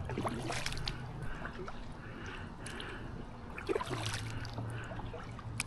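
Canoe paddle strokes in still pond water: gentle dips and trickling drips from the blade, with a few soft splashes and light knocks.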